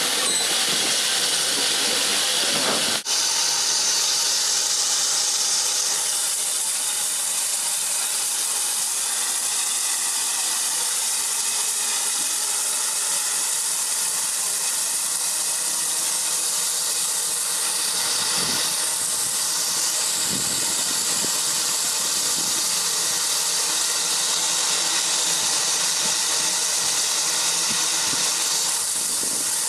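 Steam locomotive letting off steam: a loud, steady hiss of escaping steam, with a brief break about three seconds in.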